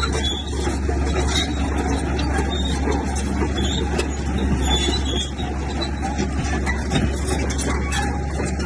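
Komatsu bulldozer running steadily at working load, a deep diesel drone with metallic clatter and short high squeals from the tracks.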